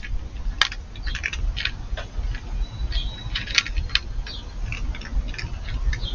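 Scattered short, light clicks and clinks at an uneven pace over a low rumble.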